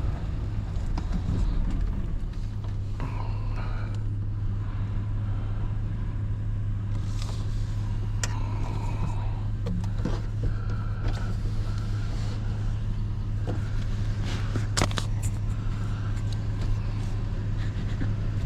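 Truck engine idling steadily, with a few faint clicks and knocks.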